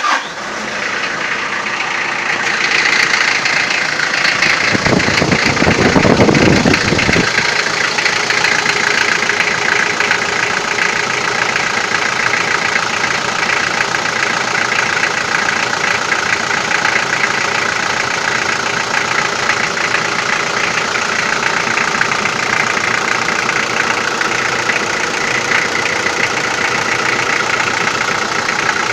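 Toyota 4B four-cylinder diesel engine running just after a start, with a knock that the owner likens to over-advanced injection timing, strongest while the glow plugs are still hot. About five seconds in a louder low rumble lasts about two seconds.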